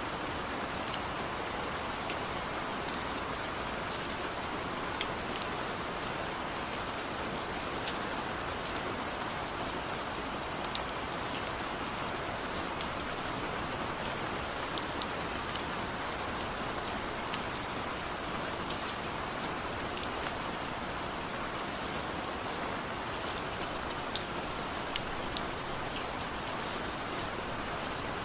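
Steady rain falling, with individual drops ticking sharply against a surface here and there over the even hiss.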